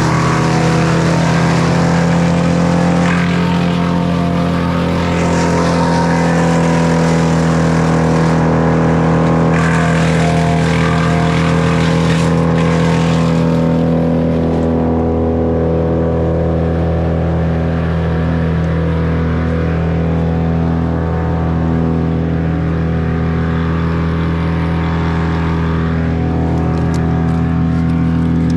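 An engine running at a steady speed throughout, with a rough, noisy layer over it for about the first half that drops away about halfway in.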